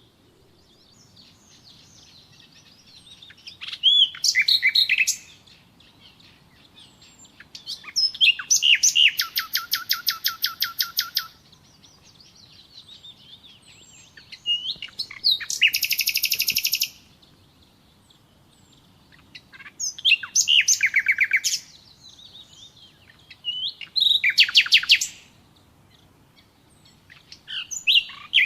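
Songbird singing in repeated phrases, each a run of high whistles and rapid trills lasting one to three seconds, coming about every four seconds with a faint background hush between them.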